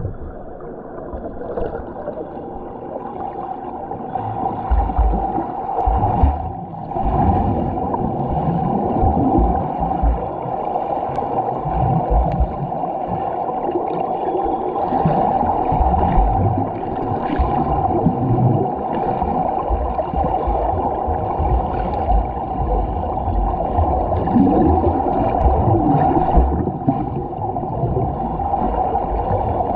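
Muffled churning and gurgling water from a swimmer's strokes and turns in a pool, heard through a GoPro's waterproof housing, with irregular low thumps and surges.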